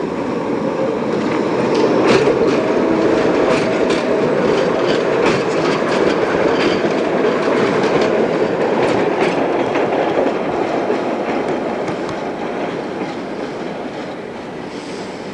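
Tram running on rails, its wheels clattering over rail joints and points with a run of sharp clicks; it grows louder over the first couple of seconds and fades toward the end.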